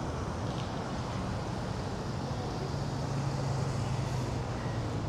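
Steady outdoor city background noise with a low engine hum underneath, which grows a little stronger about halfway through.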